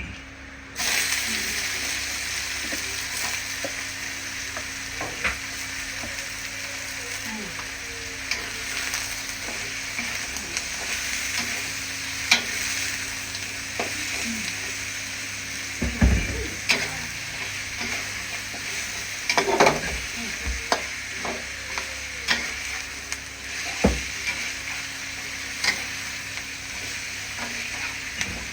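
Pieces of bird meat frying in hot oil in a pan, a steady sizzle that starts suddenly about a second in, with a utensil stirring and knocking against the pan now and then.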